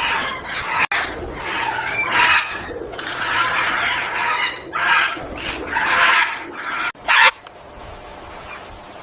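Red parrot squawking in harsh, repeated screeches that stop about seven seconds in, leaving only a faint hiss.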